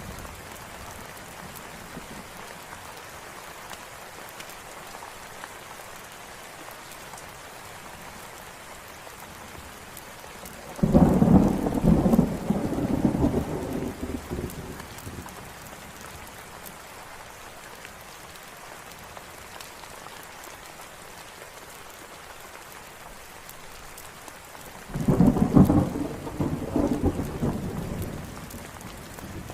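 Steady rain falling, with two low rolls of thunder that each swell up suddenly and fade over a few seconds, the first about a third of the way in and the second near the end.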